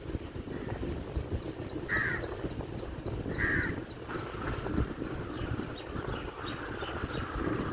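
A crow cawing twice, about two seconds in and again a second and a half later, with smaller birds chirping faintly afterwards over a steady low background rumble.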